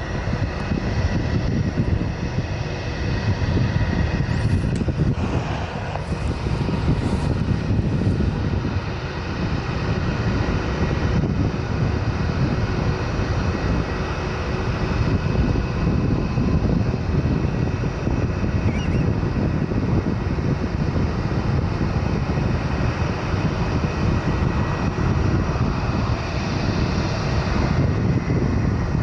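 Steady jet-engine roar of a Boeing 787 airliner climbing out after takeoff, with wind buffeting the microphone.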